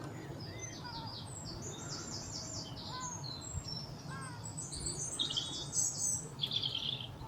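Songbirds singing: runs of quick, high chirps and trills, thickest near the end, with a few lower slurred whistle notes, over a steady low background rumble.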